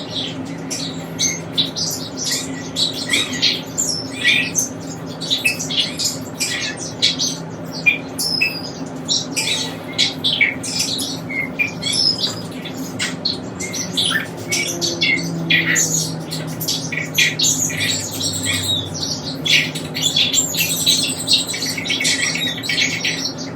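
Pet birds chirping and squawking in a rapid, continuous chatter of short high calls, over a steady low hum.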